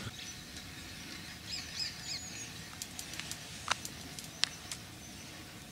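Faint, quiet outdoor air with a few short bird chirps about a second and a half in. Then a handful of sharp light clicks, the loudest near the middle.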